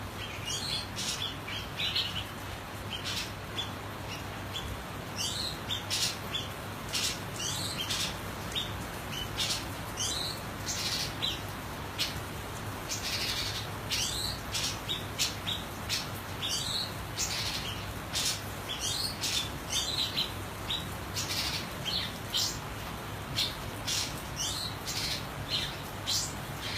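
Tepus dada-putih (white-breasted babbler) calling: runs of short, high chirps and call notes, repeated in irregular bunches throughout, over a low steady hum.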